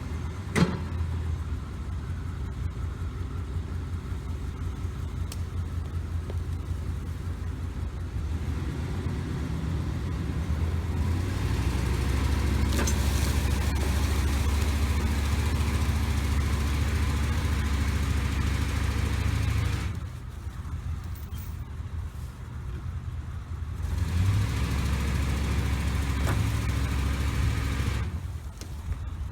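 Truck engine running steadily. It grows louder, as under more throttle, from about 11 s in until about 20 s, drops back, then rises again for a few seconds near the end.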